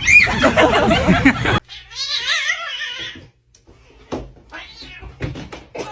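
Cat meowing loudly in arching, rising-and-falling calls. About one and a half seconds in the sound cuts to a quieter, wavering meow, followed by a few faint taps.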